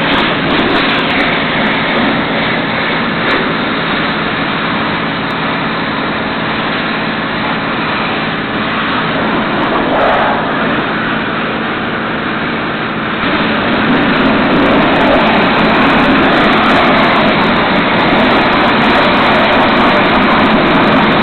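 Automatic car wash tunnel machinery running: a loud, steady mechanical wash of noise that gets louder about thirteen seconds in.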